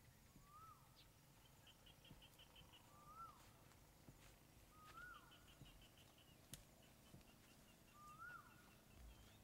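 Faint birds calling in the open: one bird gives a short whistled note that rises then falls, repeated about every two to three seconds, while another gives quick runs of high, short notes between them. A single sharp click comes a little past the middle.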